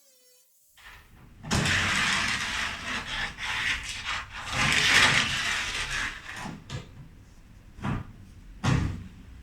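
Abrasive sanding on the metal edge of an MGB GT tailgate, a loud rasping that surges unevenly for about four seconds, then several short knocks and scrapes.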